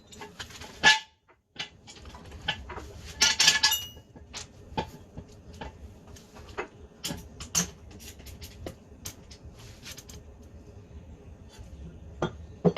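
Scattered metallic clinks and knocks, with a brief clatter of ringing metal about three seconds in, over a faint steady hum.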